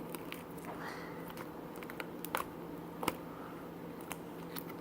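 Slime being kneaded and mixed by hand: a few faint, sharp sticky clicks and pops over quiet room tone.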